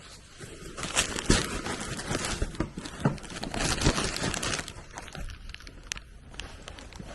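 Handling noise: irregular rustling with many light knocks and clicks, like things being moved about and set down.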